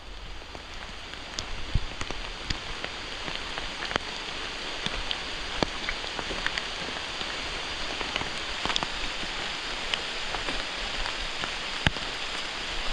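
Steady rain falling through the woods, with scattered sharp taps of individual drops striking close by.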